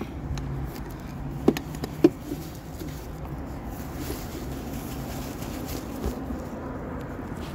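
An oil drain container being pulled out from under a car, with two sharp knocks about a second and a half and two seconds in over a low steady background.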